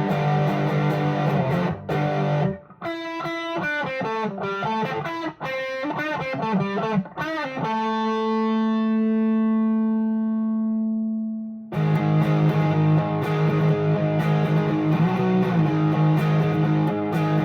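Electric guitar with crunchy overdrive through a JHS Angry Charlie pedal and Vox AC10 amp, playing a rock riff. Heavy chords give way about three seconds in to a run of single notes, then one note rings out and fades for about four seconds before the chords come back near the twelve-second mark.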